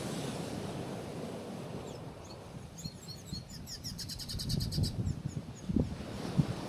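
A small bird chirps several times, then gives a fast, even trill lasting about a second, over the steady wash of waves on a rocky shore. A couple of low thumps come near the end.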